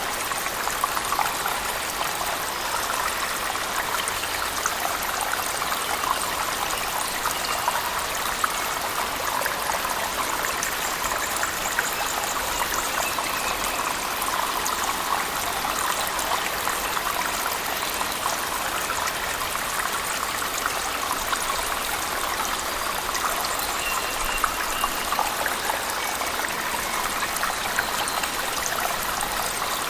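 Steady rush of water from a waterfall in a cave, mixed with heavy rain, with many small splashes and drips ticking over it.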